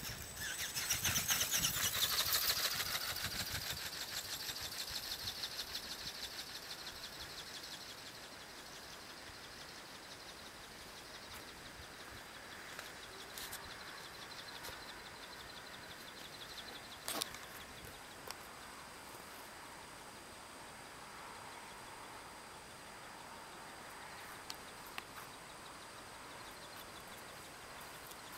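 Radio-controlled electric ornithopter flapping its wings in a fast, even rhythm. It is loud at the start and fades away over several seconds as the bird moves off, leaving faint outdoor background with one sharp click partway through.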